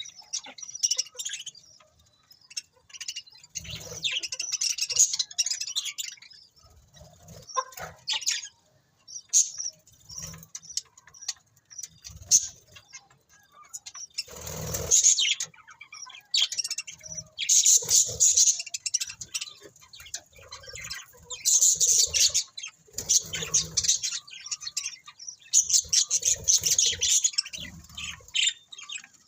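Budgerigars chirping and chattering in irregular bouts of quick, high chirps, with several short thumps and a louder rustling burst about halfway through.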